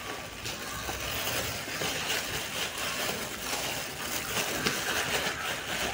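Onion-tomato masala sizzling steadily in hot oil in a pressure cooker, the sizzle starting up as beaten yogurt is poured in.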